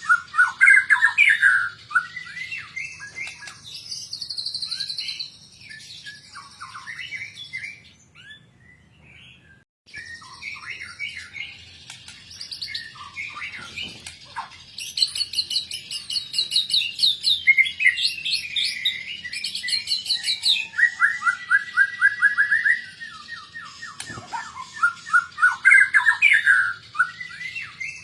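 White-rumped shama (murai batu) singing a long, varied song packed with imitated phrases ('full isian'): quick whistled notes, fast trills and rapid repeated notes, with a pause of about two seconds near the middle.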